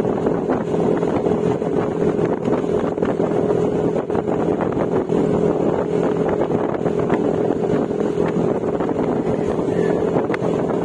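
Yamaha Mio Gravis 125 cc single-cylinder scooter running through an aftermarket Akrapovic exhaust with silencer, cruising at a steady engine speed, with wind buffeting the microphone.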